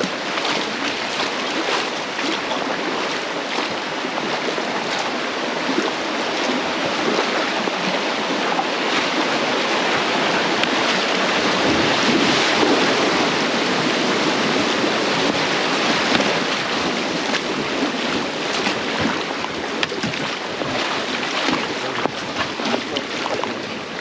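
Rushing river water around a raft, a steady even wash, with wind buffeting the microphone.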